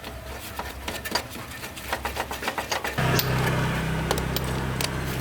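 A series of sharp clicks and knocks from work on parts, then about three seconds in a small motor starts and runs with a steady hum.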